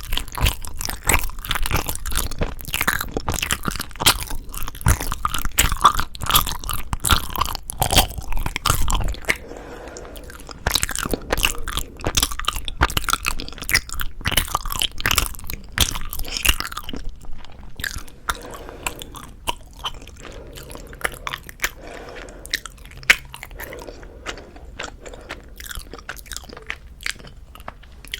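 Close-miked chewing of soft Korean rice cake (tteok): wet, smacking mouth sounds, busiest and loudest for the first nine seconds or so, then quieter, slower chewing.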